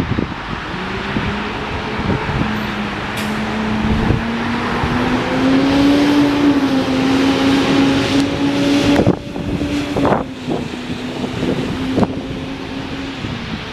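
Jet airliner's engines: a loud rushing noise with a steady hum that rises slightly in pitch. It is loudest in the middle and drops away sharply about nine seconds in. Wind buffets the microphone.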